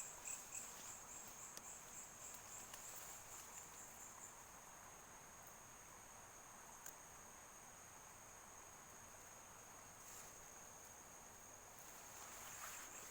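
Faint, steady high-pitched trill of crickets in the dark.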